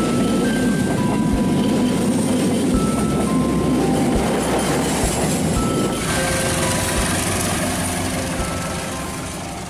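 Passenger train coaches rolling past close by: a steady rushing rail noise with wheels clacking over rail joints, fading toward the end.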